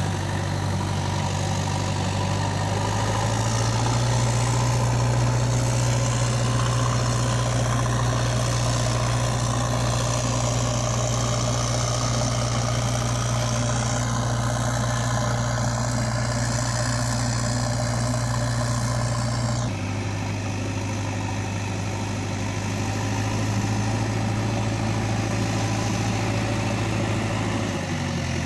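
Diesel engine idling steadily with a deep, even hum. The hum strengthens about three seconds in and shifts abruptly near twenty seconds.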